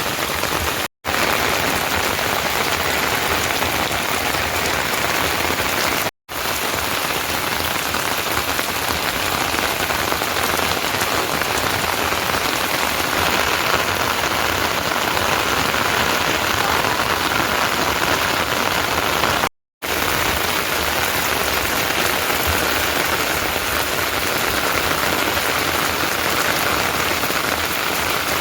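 Heavy rain falling steadily, a loud even hiss, cut off to silence for a split second three times.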